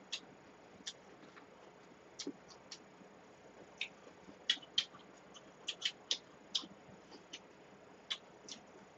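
Mouth sounds of chewing a pickled-radish and butter-squid wrap: short, sharp clicks and smacks coming irregularly, about two a second.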